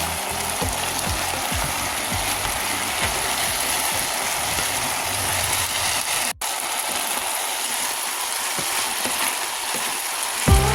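Chicken frying in hot oil, a steady sizzle with a brief break a little past halfway.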